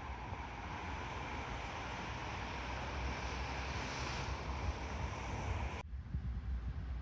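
Steady outdoor wind noise: a low rumble on the microphone under an even hiss, the hiss cutting off abruptly about six seconds in.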